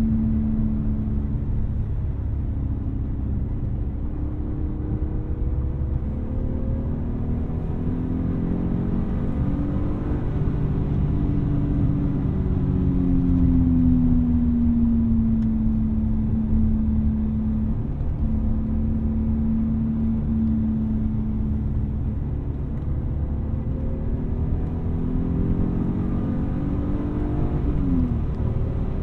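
1999 BMW E36 M3's S52 straight-six engine pulling on the move over steady road rumble. Its note climbs and eases off through the first part, holds a steady drone in the middle, then climbs again and drops sharply near the end, as at a gear change.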